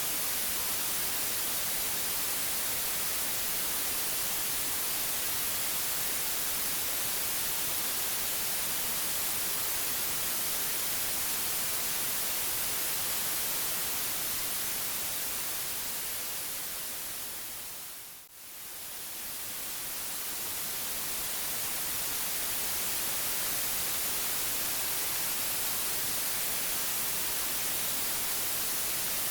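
Steady white-noise hiss, brightest in the treble, that fades down to a brief dip about 18 seconds in and swells back up to full level over the next few seconds.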